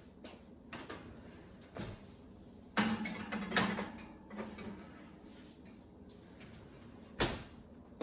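Kitchen handling sounds: a few light knocks, then a louder scraping, sliding sound about three seconds in, and one sharp knock near the end.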